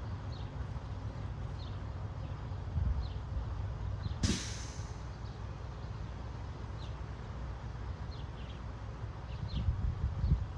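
Finches chirping, short single falling notes repeated irregularly, over a low wind rumble on the microphone. About four seconds in comes a brief, loud rush of noise.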